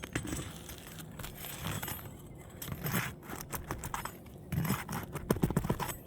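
Roofer's hatchet prying up asphalt shingles and working roofing nails loose: irregular metallic clicks, clinks and scrapes, with a quick run of clicks near the end.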